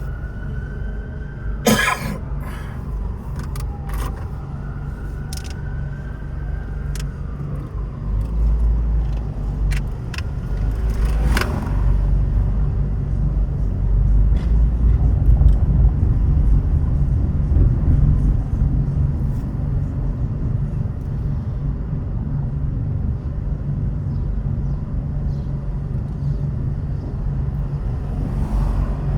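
Steady low road and engine rumble of a car driving, growing louder about a third of the way in, with a couple of sharp clicks or knocks near the start and again a little later.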